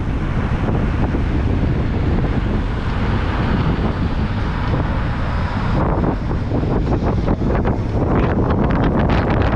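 Wind buffeting the microphone while riding a bicycle, a steady low rumble, with a run of short rattling clicks in the second half.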